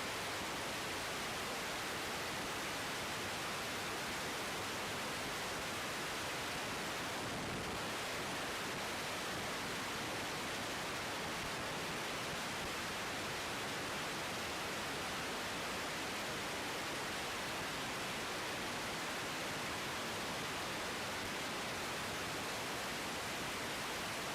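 Steady hiss of an air traffic control radio feed between transmissions, even and unchanging.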